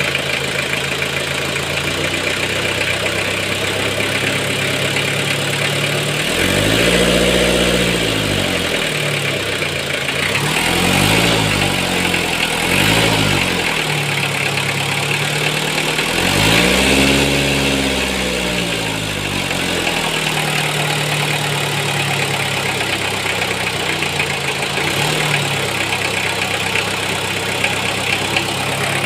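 Toyota 1C-II four-cylinder diesel engine idling and revved up and back down four times, two longer revs and two short blips, with a small blip later. The engine makes a strange noise, and its timing belt and drive belt are aged.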